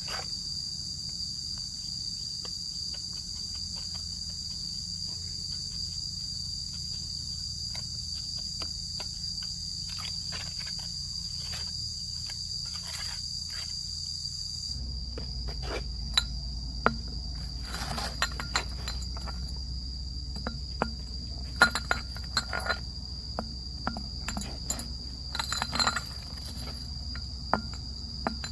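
Insects chirring in a steady high drone. From about halfway on, a low rumble joins in, along with scattered sharp knocks and clicks.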